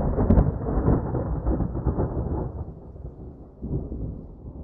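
Thunder: a crack near the start, then a long low rumble that slowly dies away.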